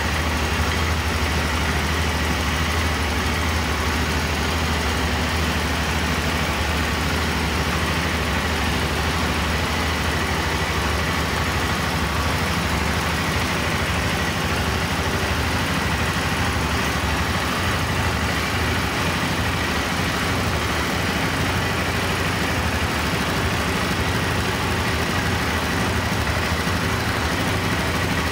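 BMW F650GS single-cylinder engine idling steadily, with an even low throb that does not change.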